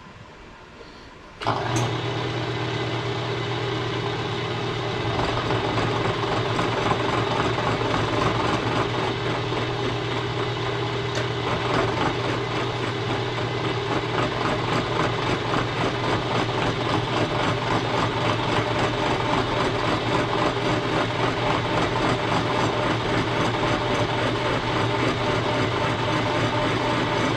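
Milling machine motor switches on suddenly with a steady hum. From about five seconds in, the sound grows louder and rougher as the cutter takes a facing cut across the engine frame.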